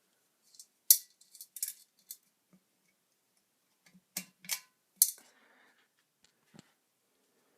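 A 1987 Halsey ceiling fan's light pull-chain switch clicking several times, with light metallic clinks in between. The sharpest clicks come about a second in and about five seconds in.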